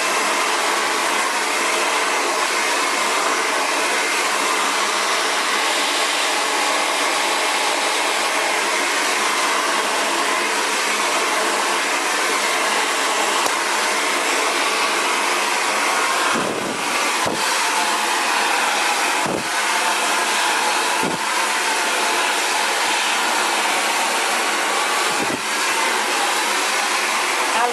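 Xtava Allure 2200-watt ionic ceramic hair dryer running steadily, a constant blowing rush with a faint motor whine, as it is worked through curly hair. A few brief soft knocks come in the second half.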